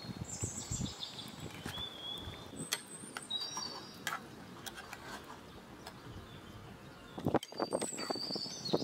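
Small birds chirping and twittering in short high whistles. Scattered sharp clicks run through it, and a quick run of knocks and clatter comes near the end as the cooking pot and utensils are handled.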